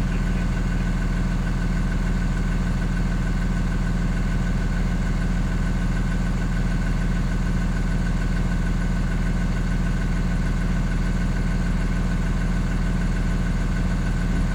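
Engine of a 2015 Blue Bird Vision school bus running steadily, heard from inside the bus, with a steady high whine over the low engine sound.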